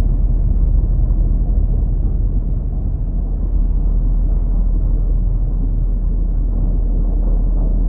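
A loud, steady low rumble of noise with no distinct events, its weight in the bass.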